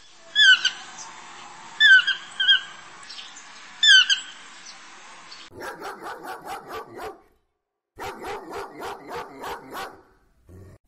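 Rainbow lorikeet giving five short, shrill calls. From about halfway through, a dog barks in two quick runs of short barks, about six a second.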